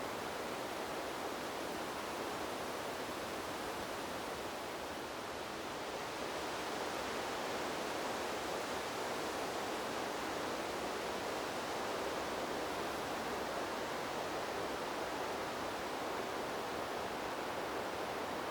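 Wind blowing through trees as a steady, even rushing hiss that swells slightly about six seconds in.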